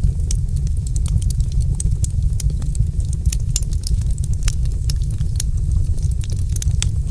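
Wood fire crackling: a dense, irregular scatter of small sharp pops and snaps over a steady low rumble.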